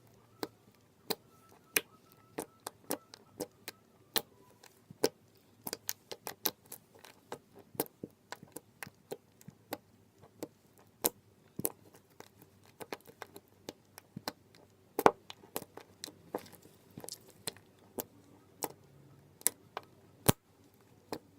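Pink BR Slimy Oops slime poked with fingers, giving sharp wet clicks and pops at irregular intervals, about two a second.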